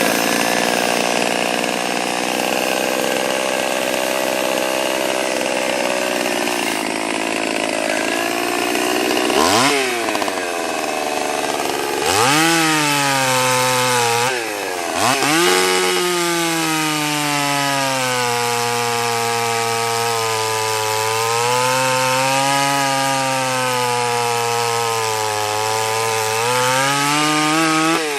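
Small Stihl 020 two-stroke chainsaw cutting up branches: it runs at steady high revs for the first several seconds, then the revs drop and climb back again a few times. In between, the engine note rises and falls as the saw works through the wood.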